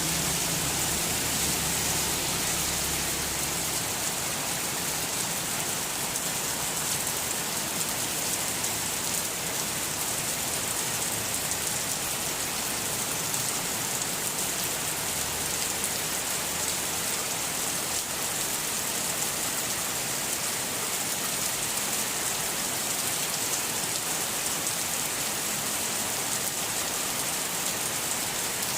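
Heavy rain pouring down steadily, a dense even hiss, with a low rumble fading out in the first few seconds.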